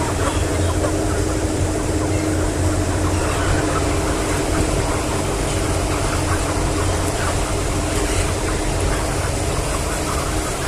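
Steady machinery hum with many chickens chirping over it.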